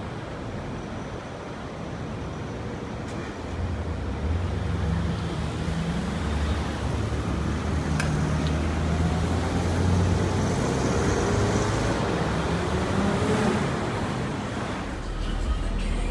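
City street traffic noise, with a motor vehicle's engine passing close by: it grows louder from a few seconds in, peaks around the middle and fades near the end.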